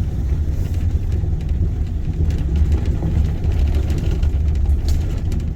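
Truck driving on a rough dirt road, heard from inside the cab: steady low engine and road rumble, with a few faint rattles.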